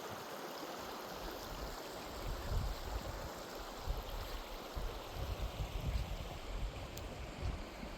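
Steady rush of running water, with irregular low wind buffeting on the microphone from about two seconds in.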